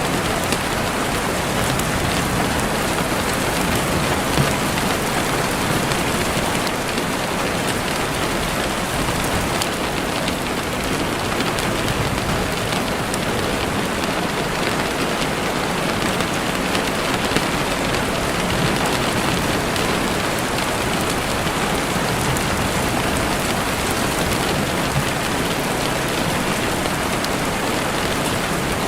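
Steady rain falling through trees, a dense even hiss with scattered faint ticks of drops.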